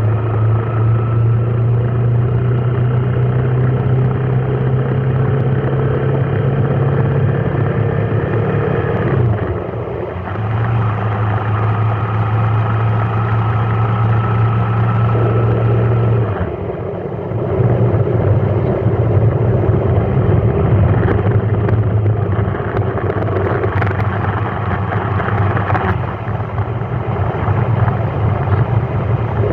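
A vehicle engine running on the move, with road noise. Its note rises slowly, breaks off about nine seconds in and again about sixteen seconds in, then steadies.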